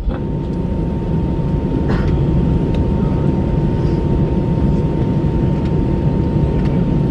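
Airbus A321 cabin noise while taxiing after landing: a steady low rumble from the engines at idle, with a thin steady high tone over it and a few faint clicks.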